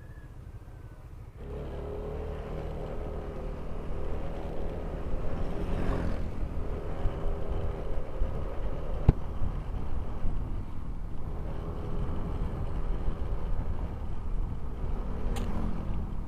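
Motorcycle engine running under way. Its note comes in sharply about a second in and then builds gradually, wavering with the throttle, over a low rumble. There is a single sharp click near the middle.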